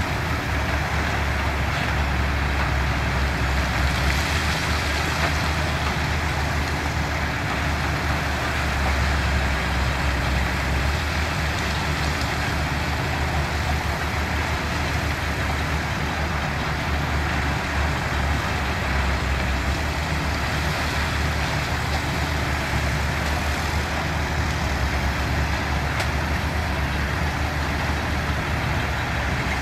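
Diesel engines of heavy construction machinery running steadily, a constant low drone with no sharp knocks or pauses.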